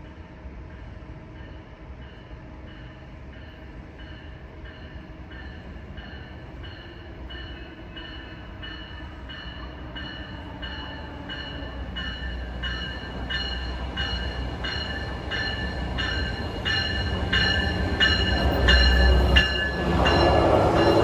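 A train approaching on the rails and growing steadily louder, its wheels clicking over the rail joints in a regular rhythm, with a high ringing tone from the rails.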